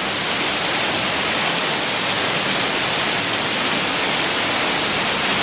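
Steady rush of water falling and running in a cave streamway: an even, unbroken hiss with no pauses.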